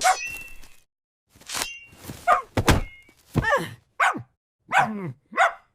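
Several sharp thunks, mixed with a small dog barking about five times in short calls that fall in pitch.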